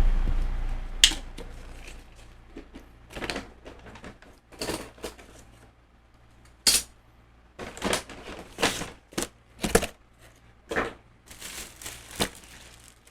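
Irregular light clicks and taps of dishes and utensils being handled, about a dozen spread unevenly, opening on the fading tail of a louder thump.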